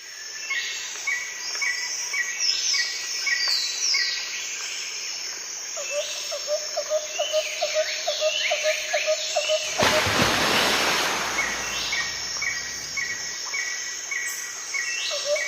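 Birds calling outdoors: a short note repeated about twice a second, with higher falling chirps, and a fast pulsing call in the middle. From about ten seconds in, a loud rushing hiss covers them for a few seconds, and it returns right at the end.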